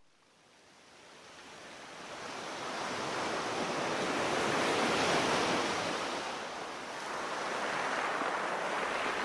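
Storm ambience: a steady rushing wash of heavy rain and wind fades in after about a second of silence, swells toward the middle, eases slightly, then rises again.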